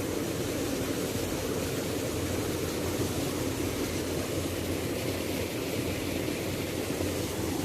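Waterfall rushing steadily: a continuous, deep wash of falling water with no breaks.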